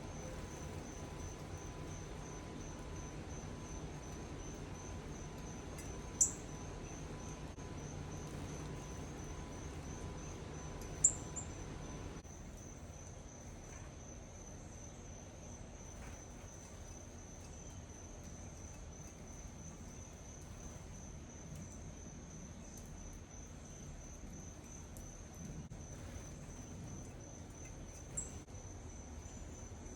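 Insects, crickets, trilling steadily in a high, fast-pulsing tone. Three brief sharp high bird chirps cut through it, about a fifth of the way in, a third of the way in, and near the end.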